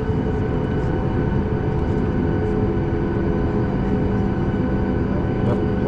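Cabin noise inside a Boeing 737 MAX 8 taxiing, its CFM LEAP-1B turbofans running at low power: a steady rumble with several steady whining tones over it.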